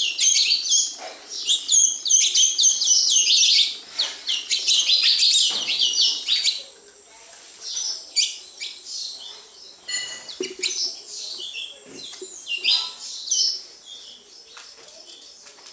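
A flock of sparrows chirping: many overlapping chirps at once for the first six seconds or so, then thinner, scattered chirps.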